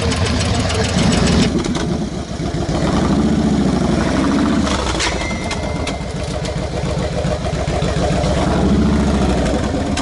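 Cruiser motorcycle engine running on a dynamometer and being revved up and back down twice, once about three seconds in and again near the end.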